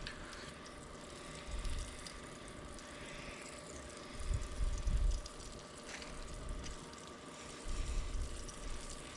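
Hot dogs frying in a skillet over a campfire: a steady sizzle, with three short low rumbles on the microphone.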